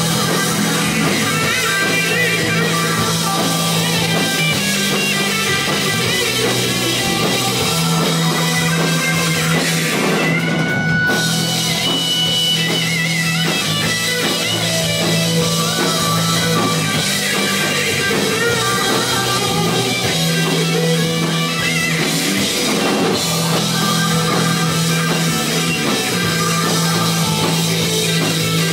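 Rock band playing live: guitar, bass and drum kit in an instrumental stretch without singing.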